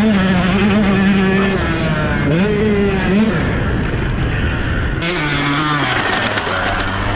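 Motocross dirt bike engine running on the throttle, its pitch holding and then rising and falling as the rider goes on and off the gas. About five seconds in the sound changes abruptly to a lower engine pitch.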